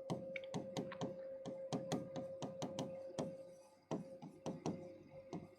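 Faint rapid clicking and tapping, several irregular clicks a second with a brief lull a little past halfway, over a faint steady hum.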